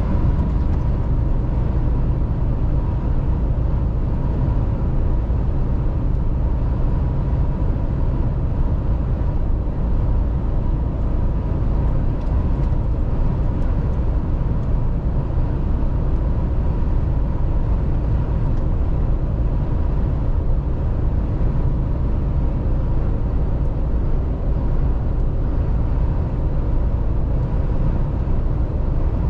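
Mercedes-Benz Actros truck driving at a steady speed: a constant low engine drone and road noise, with a faint steady whine on top.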